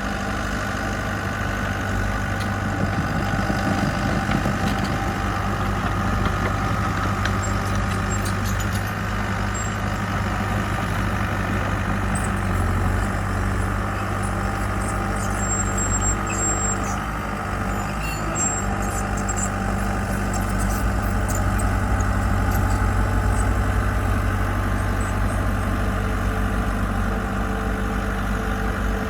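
Diesel engine of heavy construction machinery running steadily with a deep, even drone.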